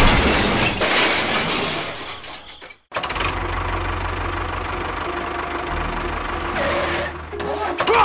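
An engine running. It fades away and cuts off about three seconds in, then comes back as a steady low idle.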